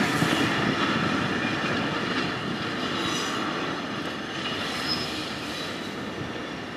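Kotoden retro electric railcar No. 23 rolling slowly over yard track while shunting, its wheels rumbling and clacking on the rails. There are brief high wheel squeals about three and five seconds in, and the sound grows steadily fainter.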